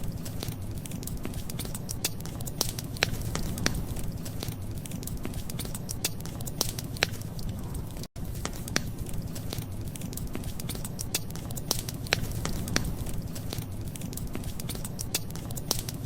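Wood fire crackling: frequent irregular sharp pops and snaps over a steady low rumble, broken by a split-second gap about eight seconds in.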